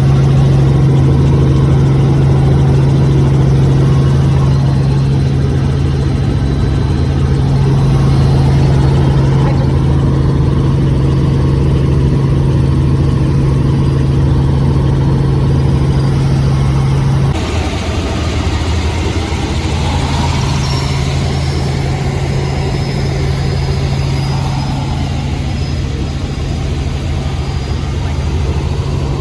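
Helicopter in flight heard from inside the cabin, a loud steady low drone, until an abrupt cut about 17 seconds in to the steady road and engine noise of a car driving.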